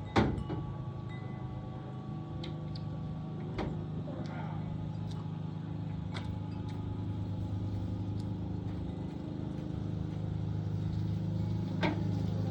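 A machine runs steadily with a low, even hum that grows slightly louder. A few sharp clicks or knocks cut across it, the loudest right at the start.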